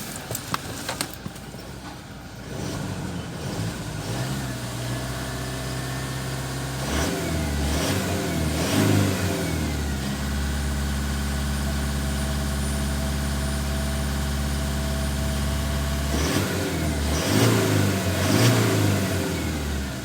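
Toyota Hilux 2.8-litre diesel engine running and being revved: a few short blips of the throttle, then held at a steady raised speed for several seconds, then more blips near the end before it drops back. A few sharp clicks come in the first second.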